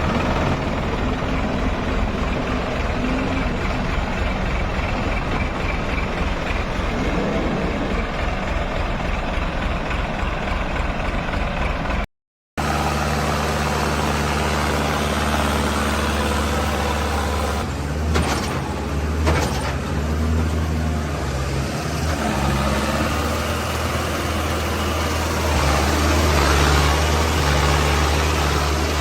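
Tractor engines running steadily. About twelve seconds in, the sound cuts out for a moment and a different engine takes over with a steady low drone, with a few short knocks a few seconds later.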